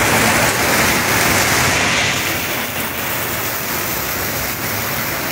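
Heavy downpour: a loud, steady hiss of rain pouring onto the street and pavement, a little louder over the first two seconds.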